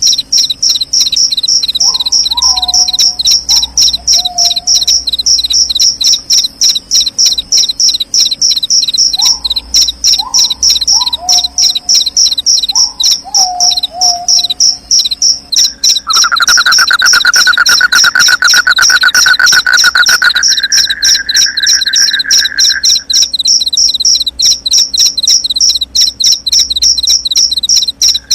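Crickets chirping in a fast, steady pulse, joined twice by a run of short falling whistled calls. About halfway through, a lower, steady trill starts up and stops about seven seconds later.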